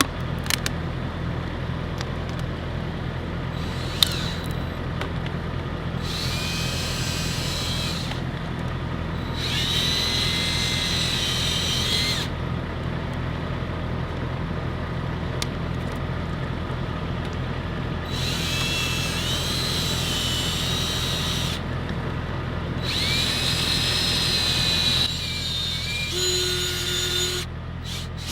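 Drill spinning a 1500-grit sanding disc to wet-sand a hazy headlight lens. It runs in several bursts of a few seconds each, with a whine that rises and settles as each burst starts, over a steady low hum.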